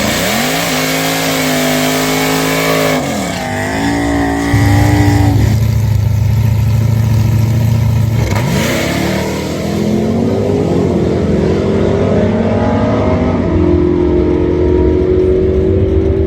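Drag-racing car engines revving: several revs that climb, hold and drop away, with a steady low engine drone in the middle and a slow rising rev near the end.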